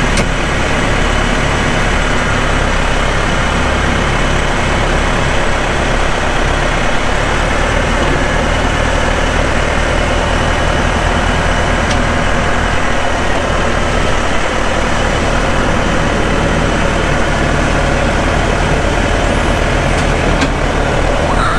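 Tractor engine running steadily; its low engine note shifts about a third of the way through.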